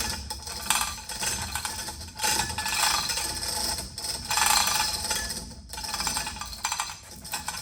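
Metal rattling and clanking in several stretches of rapid clicks, each a second or so long, as a heavy engine part is moved into place.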